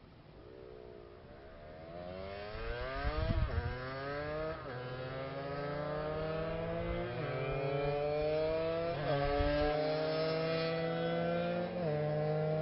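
Two-stroke engine accelerating hard through several gears, growing louder. The pitch climbs steadily and falls sharply at each gear change.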